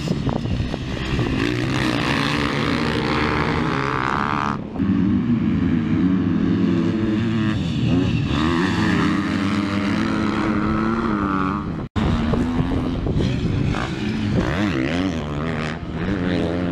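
Motocross dirt bike engine being ridden hard, its pitch repeatedly climbing and dropping as the throttle opens and shuts through the gears. The sound cuts out for an instant about twelve seconds in.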